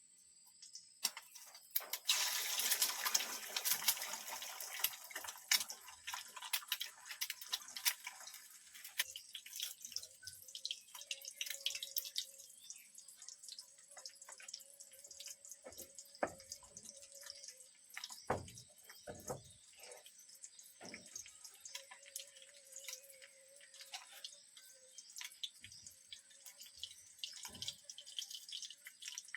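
Water dripping and splashing in many small irregular drops, densest and loudest in the first several seconds, with a couple of dull knocks past the middle.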